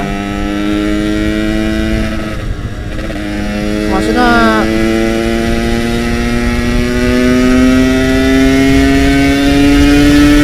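Stock Yamaha RX-King's single-cylinder two-stroke engine under way, its pitch climbing steadily as the bike pulls. The revs dip briefly about two and a half seconds in.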